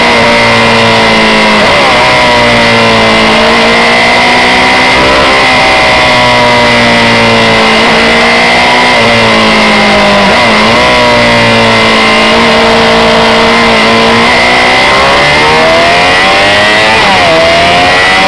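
Honda CB600F Hornet's inline-four engine running under way, its pitch rising and falling with several quick dips as the rider changes gears, with wind rushing over the microphone.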